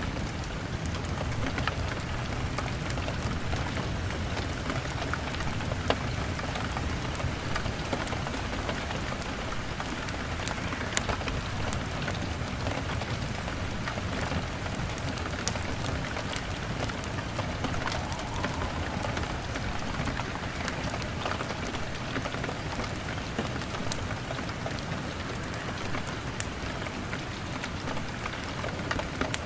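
Steady rain on a window, mixed with a crackling fire that gives scattered sharp pops and clicks, over a low steady rumble.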